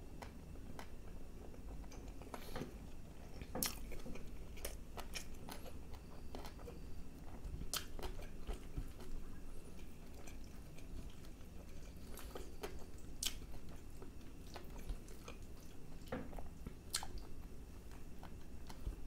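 Close-miked chewing of a mouthful of naan and chicken masala curry, with wet mouth smacks and sharp clicks scattered irregularly throughout.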